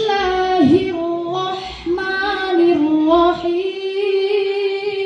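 A high-pitched voice chanting Qur'anic recitation in melodic tilawah style, holding long ornamented notes that turn slowly up and down.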